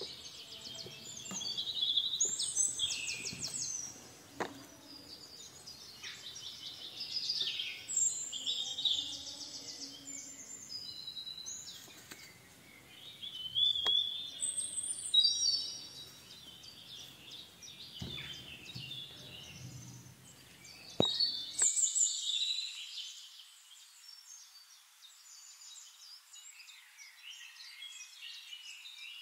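Birds chirping and trilling in quick, varied phrases, with a few light knocks from handling the plastic pump.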